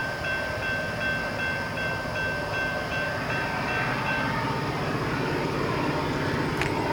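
CSX freight train rolling, a steady rumble, with a high ringing tone that repeats about two and a half times a second and stops about four seconds in. A sharp click near the end.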